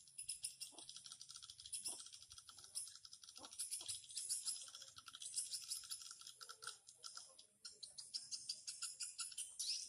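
Swiftlets twittering: a dense, continuous high-pitched chatter of rapid chirps and clicks.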